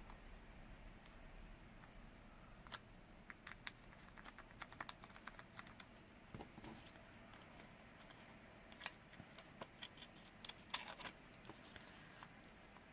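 Faint, scattered clicks and snips of small scissors trimming paper pictures, in two loose clusters.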